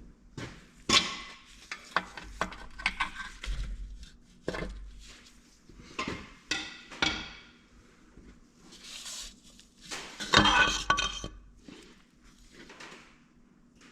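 Metal engine parts and tools clinking and clanking as they are handled and set down on a bench: a run of separate knocks, each ringing briefly. The loudest clatter comes about ten seconds in.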